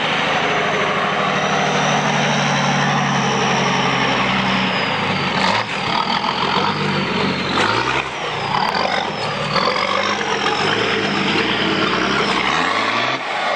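Nissan Patrol 4WD's engine under load while crawling up a steep, rutted rocky track. It holds a steady pitch for the first few seconds, then revs up and down repeatedly from about six seconds in.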